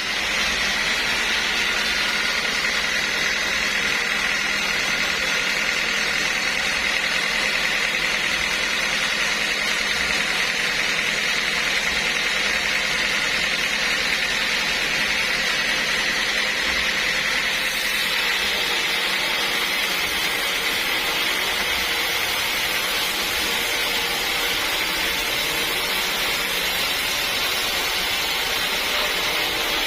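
Steady machine running noise, even and unchanging throughout, with a strong high hiss.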